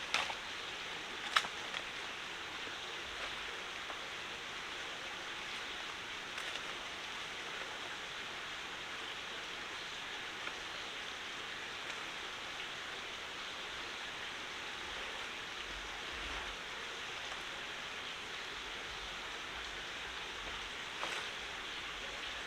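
Forest stream water running steadily, an even rushing noise. A single sharp knock sounds about a second in, with a few faint taps later.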